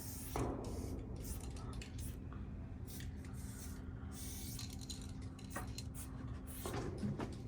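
Aerosol spray paint can hissing in many short bursts, with a few louder handling rustles about half a second in and near the end, over a steady low hum.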